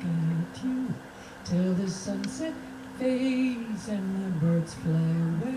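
A voice singing or humming a slow melody in long held low notes that step up and down, with no clear words.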